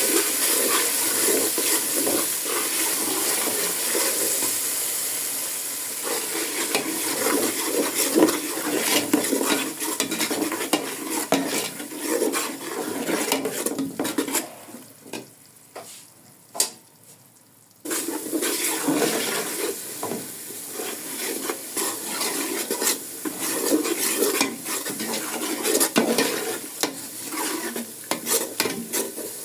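Tomato paste and onion sizzling as they fry in hot oil in a pot, with a spoon stirring and scraping against the pot. The sizzle drops away for a few seconds past the middle, then returns abruptly.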